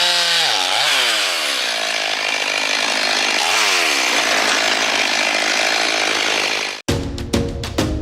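Chainsaw running at high revs and cutting, with a dense cutting hiss; its engine pitch dips and recovers a couple of times, then settles lower. It stops abruptly near the end and music with a beat takes over.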